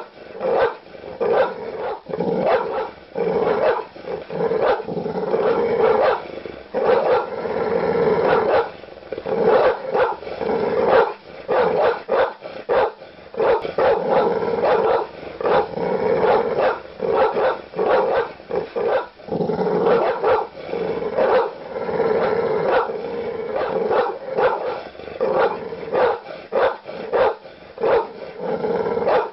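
Large dog barking aggressively: deep barks in quick, continuous succession, several a second, with longer drawn-out stretches in between.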